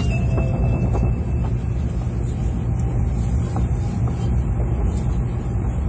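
Steady low rumble and running noise inside the passenger car of a Sakura Shinkansen travelling at speed, with a few faint clicks.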